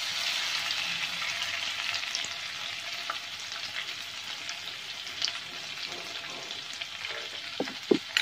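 Wet ginger-garlic, coconut and coriander paste frying in a kadhai of hot oil: a steady sizzling hiss, loudest as the paste goes in and easing a little after. A few short knocks near the end.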